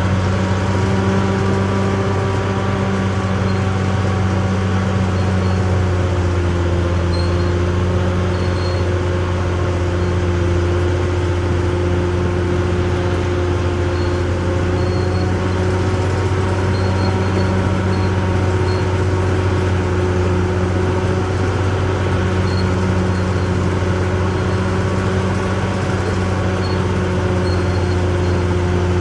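Caterpillar D6R XL bulldozer's diesel engine running steadily at a nearly constant pitch, with a deep hum.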